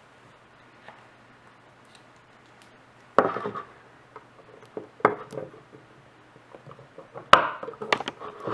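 Sharp knocks and metallic clinks from tools and a 3.5-inch hard drive being handled on a work surface: three distinct knocks a couple of seconds apart after a quiet start, then a few light clicks near the end.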